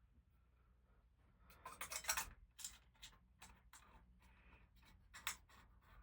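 Faint clicks and scrapes of glass light shades being handled and fitted to a ceiling fan's light kit, with a cluster about two seconds in and a sharp click near the end.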